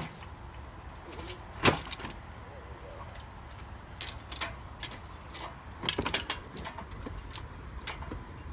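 Scattered metallic clinks and knocks from an engine hoist's chain and the engine block shifting as the engine is lifted out of the engine bay, coming in irregular clusters with pauses between them.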